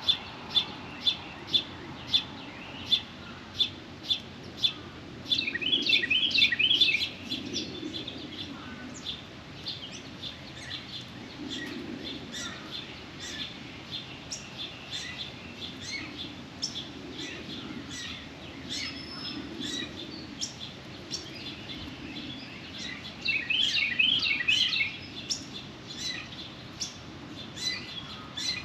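Small songbirds chirping at a feeder. A single repeated chip about twice a second for the first few seconds, scattered chirps throughout, and two bursts of rapid chattering, one about five seconds in and one near the end.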